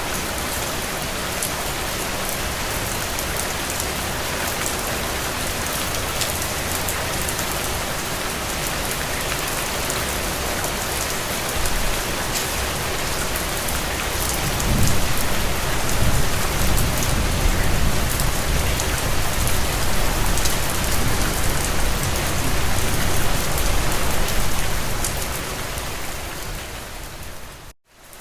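Steady rain falling, an even hiss with scattered drop ticks. From about halfway a low rumble builds under it and holds for some ten seconds. Near the end the sound fades away into a moment of near silence and then comes back.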